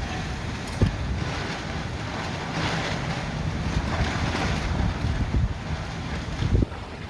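Storm-force gusting wind, rumbling and buffeting on the microphone, with a rushing hiss that swells in the middle. Two sharp thumps of wind hit the microphone, one just under a second in and one near the end.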